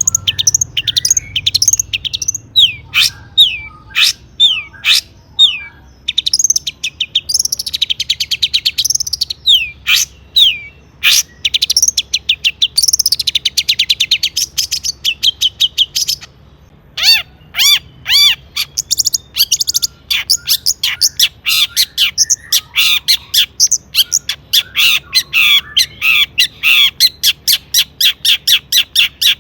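Long-tailed shrike singing energetically: a fast, varied string of chattering notes, trills and rapid repeated chips that takes in mimicked songs of other birds, with a brief pause about halfway through.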